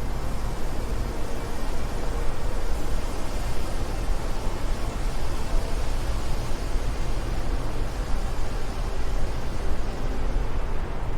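Steady wind noise: a continuous rushing hiss over a deep, unbroken rumble, with no gusts or separate events standing out.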